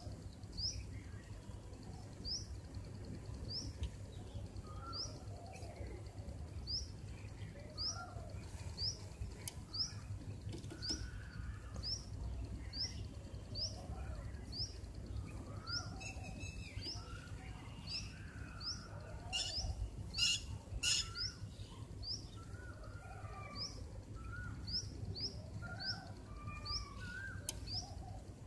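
Birds chirping: one bird repeats a short, high, rising chirp about once a second, with softer, lower calls from other birds in between. A few sharp clicks come about two-thirds of the way in, over a low steady hum.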